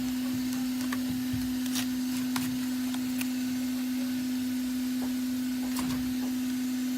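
Steady, single-pitched hum of a small electric machine running, with a few light clicks and taps over it.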